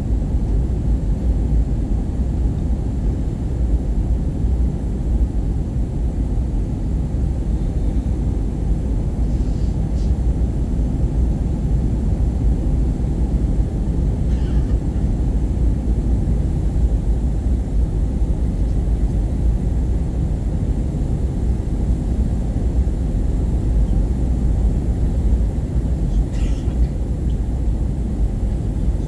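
Steady deep roar of an Airbus A320 cabin in flight, from the front row: airflow and engine noise holding level throughout, with a few faint brief high sounds over it.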